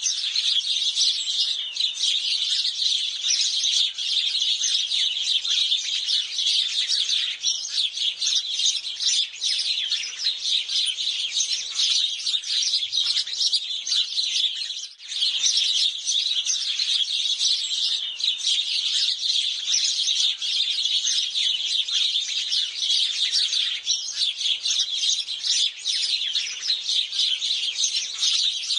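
A flock of house sparrows chirping constantly, many short chirps overlapping into a dense chatter, with a brief break about halfway through.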